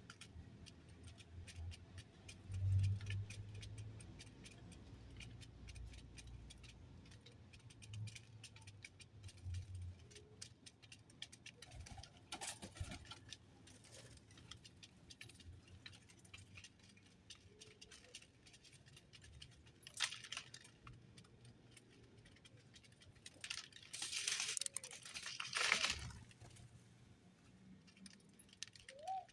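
Small birds at a feeding spot: many light ticks and rattles, with a few faint short chirps and a couple of louder rustling bursts near the end.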